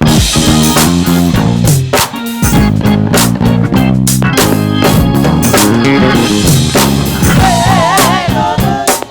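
Gospel church band playing an instrumental groove: drum kit hits over low, steady bass notes, with a wavering high melody line near the end.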